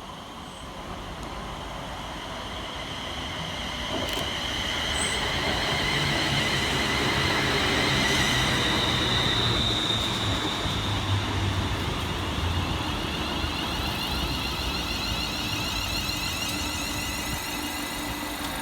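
ScotRail Class 380 Siemens Desiro electric multiple unit arriving into the station, its wheels rumbling under a steady high electric whine. The sound builds over the first eight seconds or so; the whine fades out around ten seconds in while the rumble carries on.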